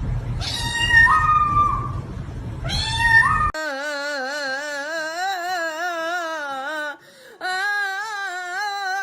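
Domestic cat meowing twice, each call rising in pitch, then long wavering yowls: one of about three seconds and another shorter one near the end.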